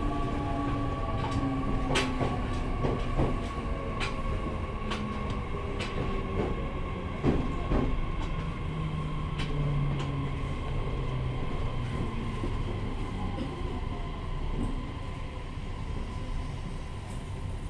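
JR East E501-series electric train braking into a station: the motor and inverter whine slides down in pitch over a steady high tone, while the wheels click over rail joints and points.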